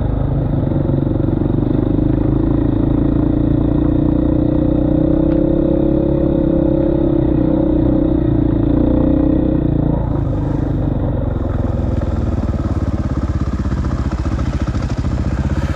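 KTM 450 EXC enduro motorcycle's single-cylinder four-stroke engine running under way at fairly steady revs. About ten seconds in, the steady note drops away and the sound turns rougher.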